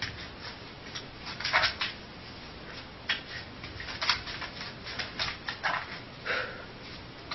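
Dog's hind claws scratching and scraping against a wall as it lies on its back, in short irregular bursts over a steady hiss.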